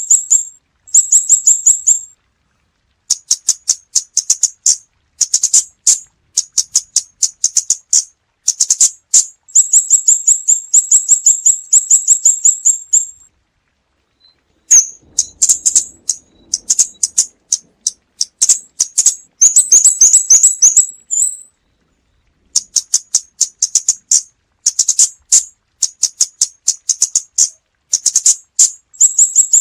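Female scarlet-backed flowerpecker calling: rapid runs of sharp, high-pitched ticking notes, each run lasting a second or two, with short pauses between runs and two longer breaks.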